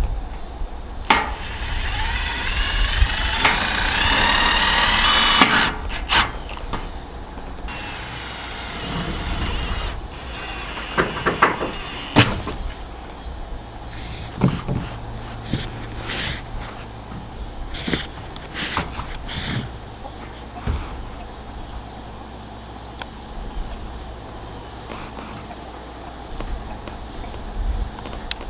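Power drill driving a screw through a metal roofing panel: a whine that rises for about four seconds and stops suddenly. Scattered knocks and clicks on the metal panels follow, over a steady high drone of insects.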